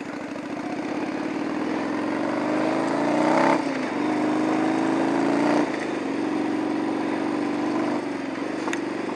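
Yamaha Virago 750 V-twin motorcycle engine pulling away under acceleration, its pitch rising, then dropping at an upshift about three and a half seconds in, rising again, then dropping at a second upshift before running at a steadier pace.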